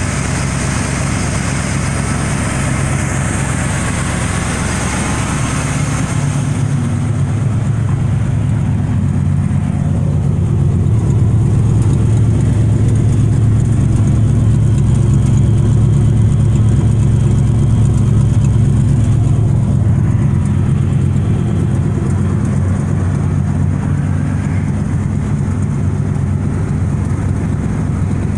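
Old carbureted farm truck engine idling steadily, with a hiss over it that stops about six seconds in.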